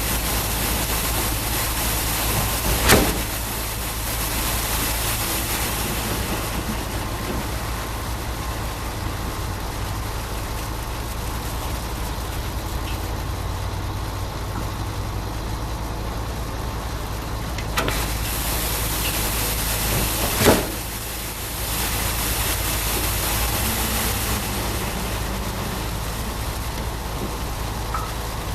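Concrete pump truck running steadily, a low engine drone under an even hiss, with two sharp knocks, one a few seconds in and one about two-thirds of the way through.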